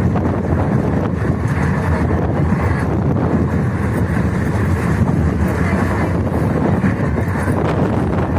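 Passenger train running: a steady low rumble from the moving coach, with wind buffeting the microphone.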